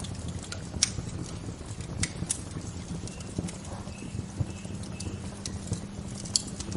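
Wood fire crackling with irregular sharp pops, the loudest near the start and near the end, over a steady low rush. A few faint short bird chirps sound in the middle.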